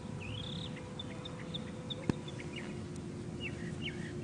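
Small birds chirping over and over, with short rising sweeps and quick single notes. A single sharp click comes about two seconds in.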